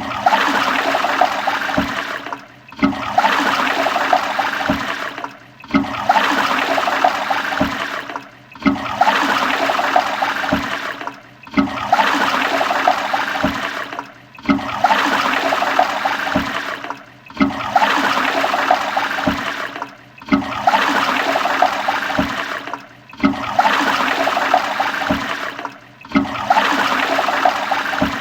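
Toilet flushing: rushing, gurgling water that breaks off sharply and starts again about every three seconds, the same short flush repeating over and over.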